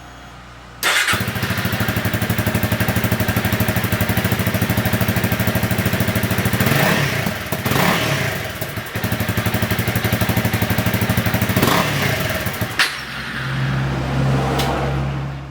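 Honda CRF300 Rally's single-cylinder engine idling with an even, rapid pulse, blipped a few times in the middle.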